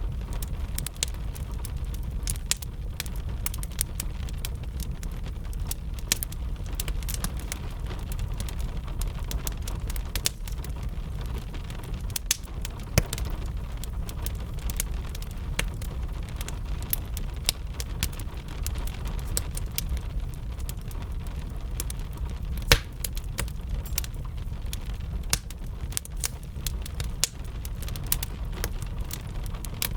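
Wood fire crackling with frequent, irregular sharp pops, one louder pop about two-thirds of the way through. Underneath runs a steady low rumble and the even hiss of gentle rain.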